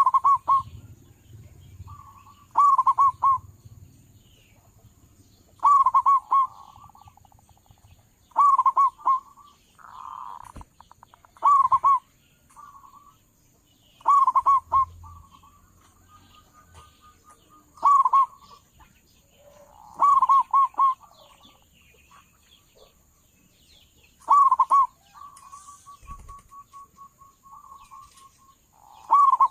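Local zebra dove (perkutut) cooing: loud, short phrases of quick, clipped notes repeated about every three seconds, with a softer rapid trill between some phrases.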